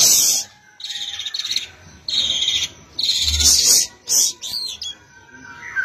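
Tiarap songbird singing in about five short bursts of rapid, high-pitched trilling, separated by brief pauses.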